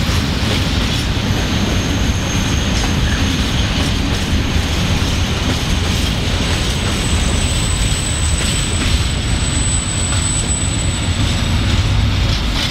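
Open freight wagons rolling by on jointed track: a steady rumble, wheels clicking over the rail joints, and a thin high wheel squeal that comes and goes.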